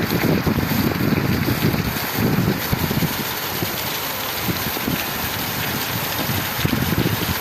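Torrential rain pouring down in a steady rush, with gusts of wind buffeting the microphone, strongest in the first few seconds and again near the end.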